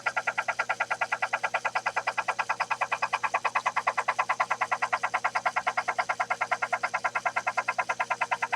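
Sherline benchtop lathe running, with a fast, perfectly regular clatter about ten times a second.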